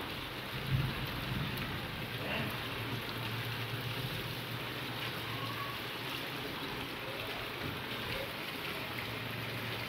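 Steady rain falling on a paved courtyard, with a low rumble underneath.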